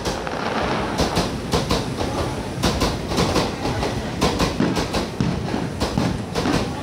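Meitetsu electric train passing through a station at speed, its wheels clattering over the rail joints in a run of sharp clicks.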